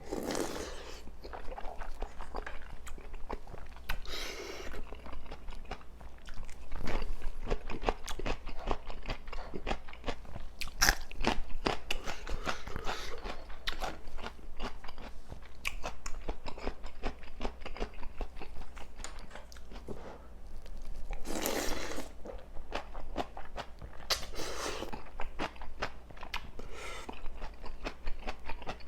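Close-miked eating: a person biting and chewing crunchy food, with dense wet crunching and clicking throughout and a few louder bursts.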